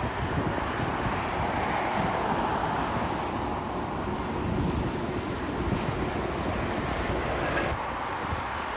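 Jet aircraft engine noise, a steady rushing roar that swells and eases slowly, with wind buffeting the microphone.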